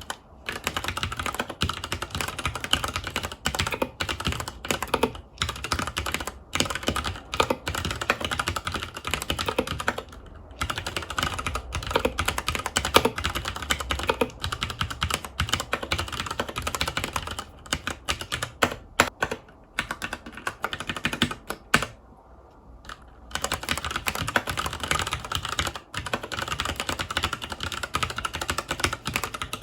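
Mechanical keyboard with Cherry MX Brown switches (FILCO Majestouch 2 Hakua tenkeyless) being typed on in a continuous stream of rapid key clicks, with brief pauses about ten seconds in and again around twenty-two seconds.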